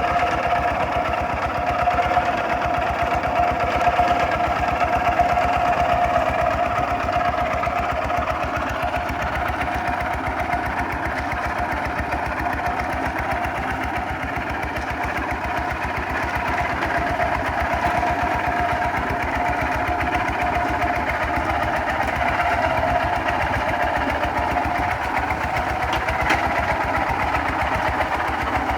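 Kubota RT 140 DI single-cylinder diesel engine running steadily under load, pulling a plough, with a fast even chugging throughout.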